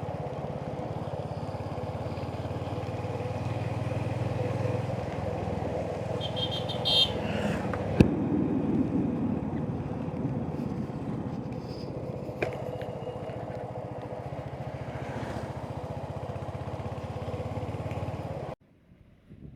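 Royal Enfield Hunter 350's single-cylinder engine running steadily under way, with road and wind noise. A sharp click about eight seconds in, and the sound cuts off suddenly near the end.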